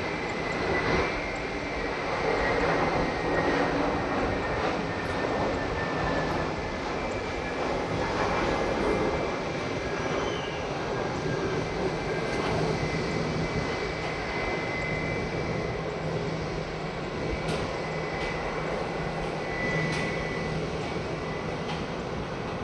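The CFM56 turbofan engines of an Airbus A321-211 running: a steady rushing jet noise with a thin, high whine held through it.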